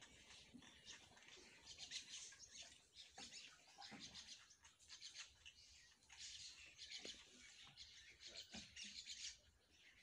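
Faint chirping of small birds, many short calls overlapping.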